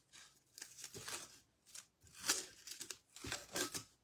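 Masking tape being peeled off a painted metal tea kettle in several short, ripping pulls with some crinkling, the loudest a little over two seconds in.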